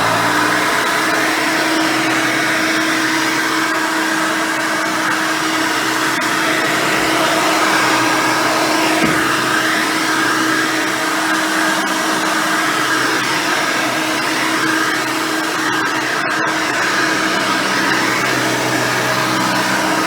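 Hoover Elite 600 upright vacuum cleaner, with its 6 amp motor and a single-row brush roll, running steadily: a loud, constant rush of air with a steady motor tone.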